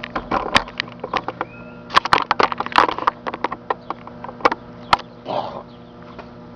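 Irregular sharp snapping and crackling of electrical arcing from a piece of computer hardware inside a running microwave oven, over the oven's steady hum. A short hissing burst comes a little past five seconds in.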